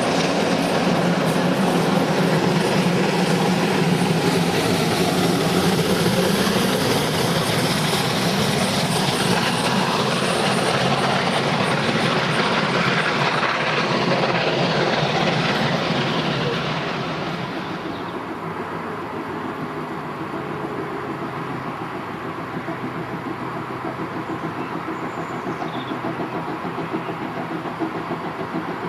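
A train passing close by on the rails, loud for the first seventeen seconds or so, then fading away as it moves off.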